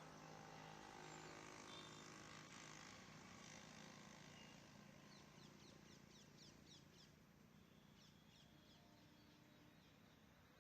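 Faint outdoor ambience: a low steady hum under small birds chirping, with a quick run of chirps about halfway through.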